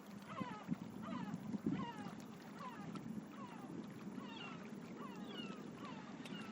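Birds calling: a run of short, downward-sliding calls, two or three a second and often overlapping, over a low steady rumble with a few soft knocks in the first two seconds.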